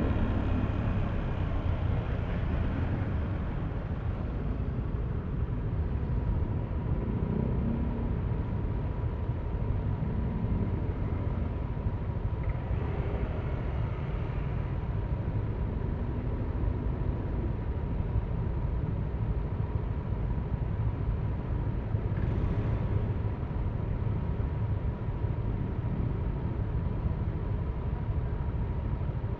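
Yamaha Aerox V3 scooter's 155 cc single-cylinder engine running at low speed in traffic, a steady low rumble that eases off after the first couple of seconds. A faint steady high whine sits above it.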